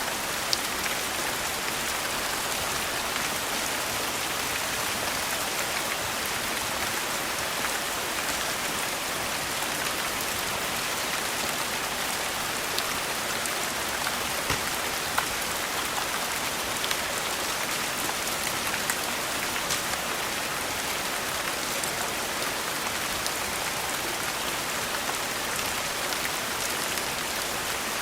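Steady rain falling, an even hiss, with scattered sharp ticks every second or two.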